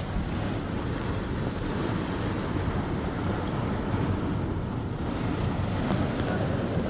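Steady storm noise of wind and rain during a thunderstorm, with wind rumbling on the microphone.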